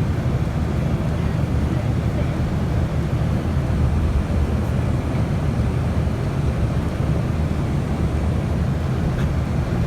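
Steady low rumble with a lighter hiss over it, like a vehicle in motion heard from on board, with no distinct knocks or events.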